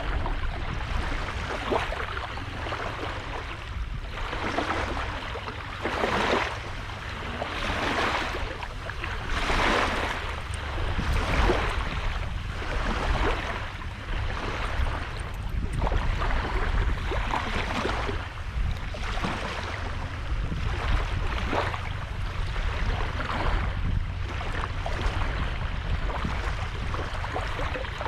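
Small sea waves breaking and washing onto a sandy beach, one surge after another every second or two, over a steady low wind rumble on the microphone.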